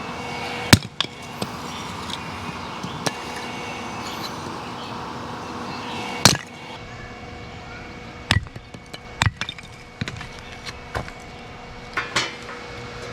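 Scattered sharp knocks and clatters, about six of them, as pieces of cut firewood are handled. A steady mechanical hum sits underneath and gets quieter about halfway through.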